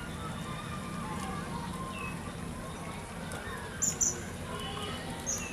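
Small birds chirping, with scattered short high chirps and the loudest pair of sharp chirps about four seconds in, over a steady low background hum.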